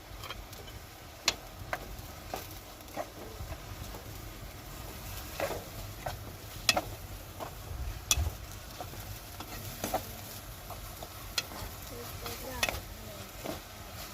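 Irregular light knocks and clicks, about a dozen, scattered over a low steady hiss.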